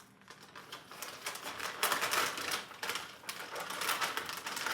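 Plastic MRE packaging crinkling and rustling as it is handled, in quick crackly clusters that are loudest twice, about two and four seconds in.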